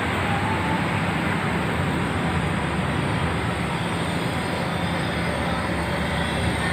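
Steady low drone of a large passenger ferry's engines under way, with an even rushing noise over it.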